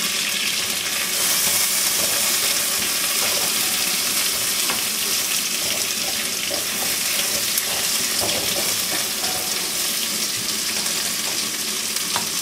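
Chicken wings sizzling steadily as they fry in a pan; the sizzle grows a little louder about a second in.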